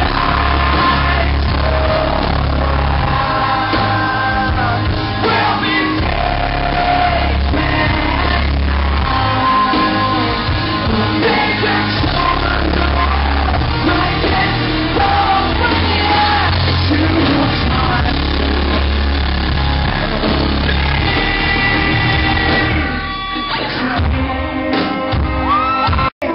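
Live rock band playing loudly with a lead singer, a heavy bass pulsing underneath.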